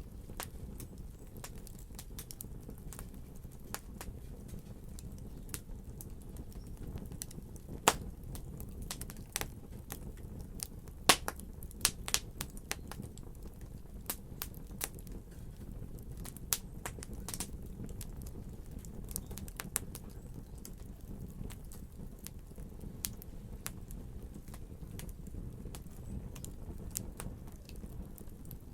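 Fireplace fire crackling: irregular sharp snaps and pops over a steady low rumble, with a few louder pops about eight and eleven seconds in.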